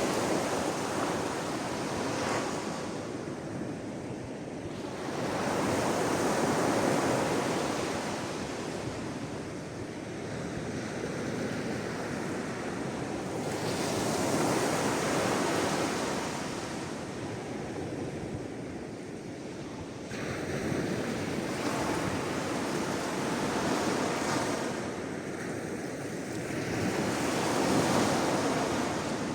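Sea waves washing onto the shore, each wave swelling and fading away every five seconds or so, with a steady hiss of surf between them.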